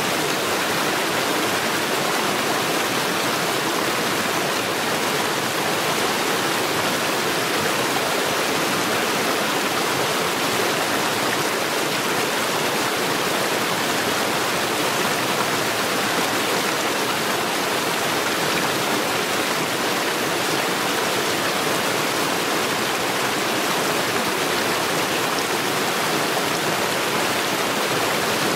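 Mountain stream rushing over rocks and stones, a steady, even rush of water.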